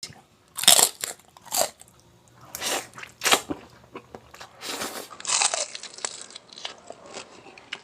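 Close-up crunching of someone biting into and chewing crispy pata's crackling deep-fried pork skin, with about five loud crunches in the first five seconds followed by softer chewing.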